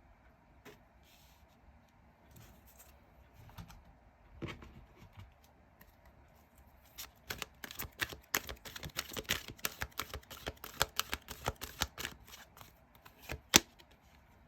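Tarot cards being handled and shuffled: a few soft rustles and taps, then about six seconds of rapid card clicks and snaps, ending with one sharp tap near the end.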